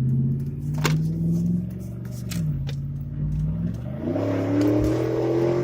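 Pickup truck engine pulling away and accelerating: its pitch dips about two seconds in at a gear change, then climbs steeply under throttle and holds. A single sharp click about a second in.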